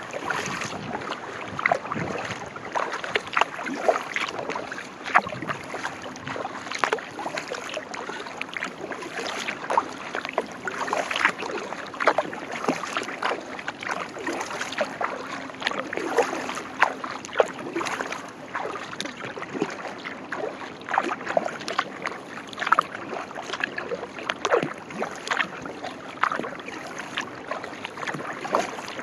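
Sea kayak being paddled: the paddle blades dipping and splashing, with water dripping and a run of irregular small splashes.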